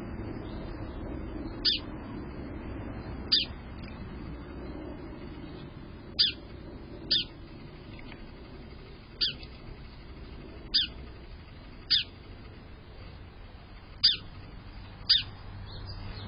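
A bird calling a short, high note that slides steeply down in pitch, nine times at uneven intervals of one to two seconds, over a faint steady background hum.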